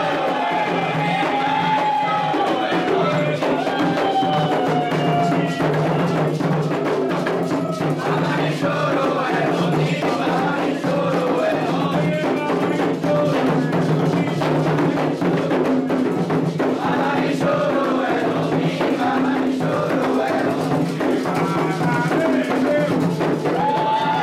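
Candomblé ritual music for Oxalá: hand drums and percussion beating a continuous rhythm under sung chanting.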